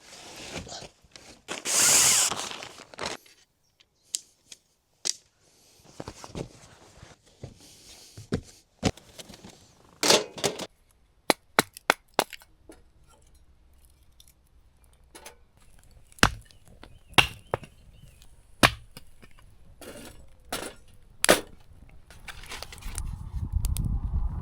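Irregular sharp cracks and knocks, one at a time with gaps between them, and a louder hissing rustle about two seconds in.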